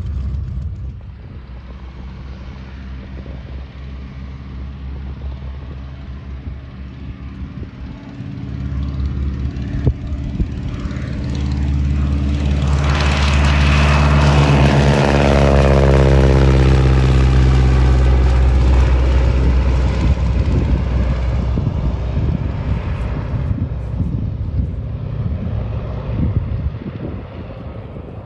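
1943 Boeing Stearman biplane's radial engine at full power on its take-off run. It grows louder as the plane approaches, is loudest about halfway through as it passes, with the pitch dropping, then fades away.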